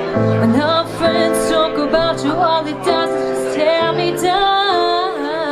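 Live band music: sustained chords under a female voice singing a wavering, drawn-out melody without clear words.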